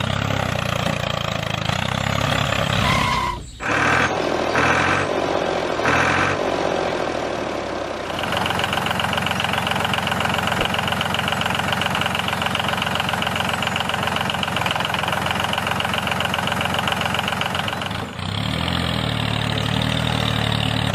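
Tractor engine idling steadily, with a brief break about three and a half seconds in and a change to a different steady running sound from about eight seconds until near the end, when the idle returns.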